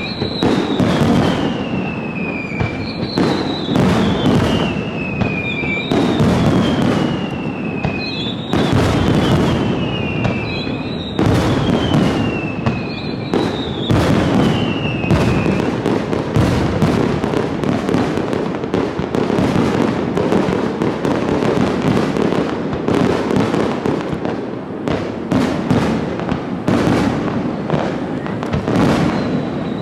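Fireworks display: a dense barrage of shells bursting and crackling. Over the first half, a run of falling whistles repeats about every second and a half.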